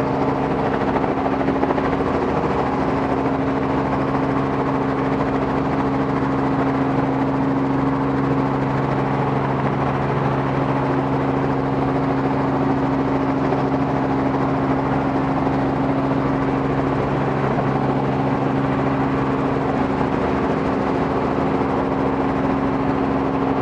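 Robinson R44 helicopter's piston engine and rotors running at a steady pitch and level in a hover, the rotor RPM holding up.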